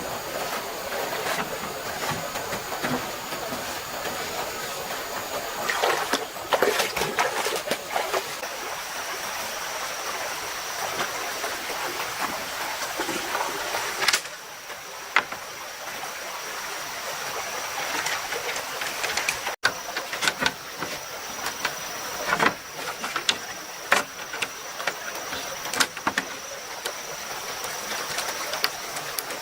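Stream water running steadily, with a thin high steady tone above it and scattered short knocks and clatters, a few of them in quick runs.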